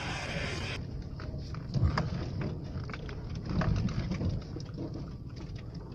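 Vehicle driving over a rough dirt track: a low rumble with scattered knocks and rattles.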